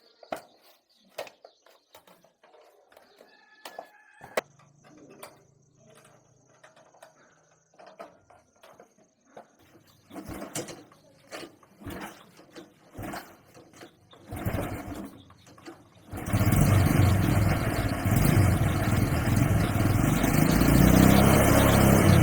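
Light clicks and knocks of parts being handled, a few short louder bursts, then about sixteen seconds in a motorcycle engine starts and runs loudly and steadily.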